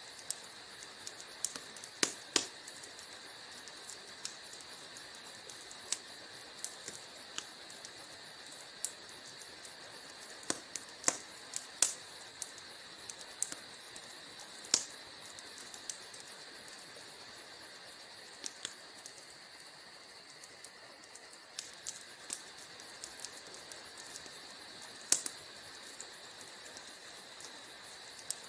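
Wood fire crackling in a fireplace: irregular sharp pops and snaps, a few much louder than the rest, over a steady soft hiss.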